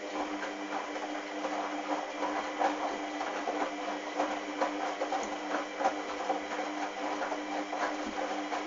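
Hoover washing machine mid-cycle: the drum motor hums steadily while the wet towels tumble, with a constant irregular run of swishes and knocks.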